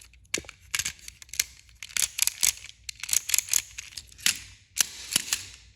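A run of irregular sharp plastic clicks and knocks: a battery-powered toy train engine being handled, its battery contacts and switch worked before the motor runs.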